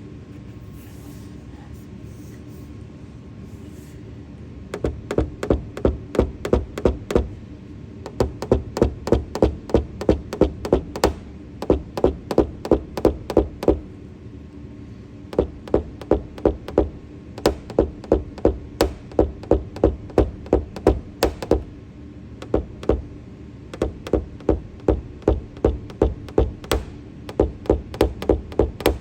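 Runs of rapid, light hammer taps on a car's sheet-metal roof panel during paintless dent repair, about five taps a second. They come in bursts of a few seconds with short pauses between them.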